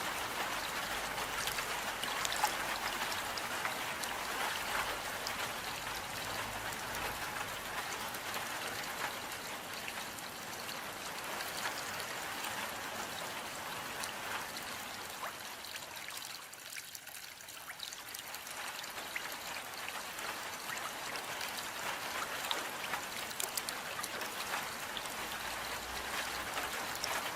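Steady rainfall, an even hiss of water speckled with many small drop impacts. It thins briefly about two-thirds of the way through.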